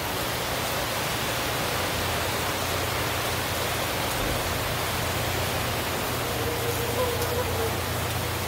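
Heavy tropical-storm rain pouring down in a steady downpour.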